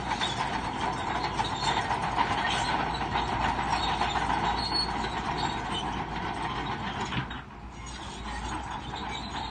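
Crawler bulldozer working: its steel tracks squealing and clanking over the running engine, with a brief dip in the noise about seven seconds in.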